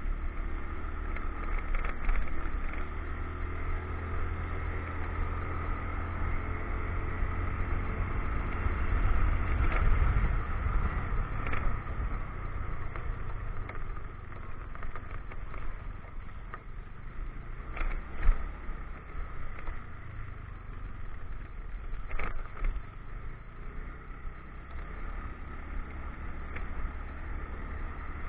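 Motorcycle engine running on the move, with heavy wind rumble on the action camera's microphone. Engine note is clearest in the first part; two sharp knocks come in the second half.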